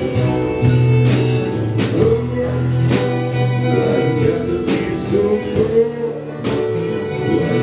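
Country band playing an instrumental passage between sung lines, with guitar over bass and a regular beat.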